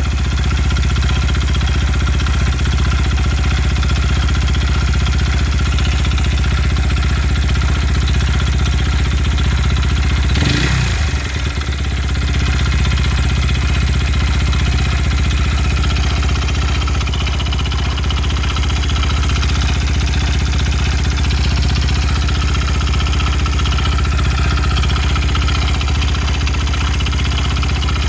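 Honda Ape's fuel-injected single-cylinder engine, bored up with a Kitaco 82cc kit, running steadily at a constant speed with an unexplained abnormal noise that the owner cannot identify. About ten seconds in the running briefly changes, with a short dip in loudness.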